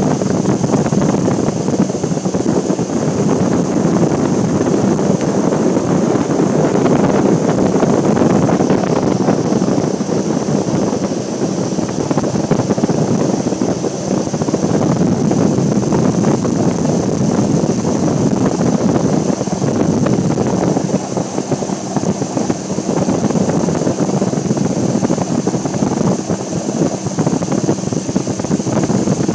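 Boat motor running steadily while the boat is under way, with wind noise on the microphone.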